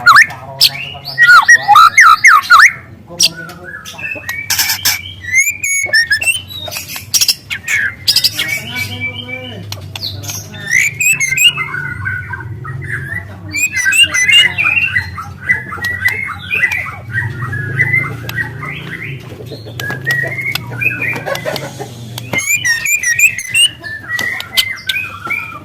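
Juvenile white-rumped shama singing rapid, twittering song phrases with long, loud canary-like runs mixed in. The phrases are loudest in the first few seconds.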